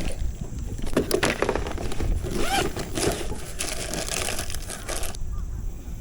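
Wind buffeting the microphone: a steady low rumble with dense crackling, the crackle cutting off suddenly about five seconds in.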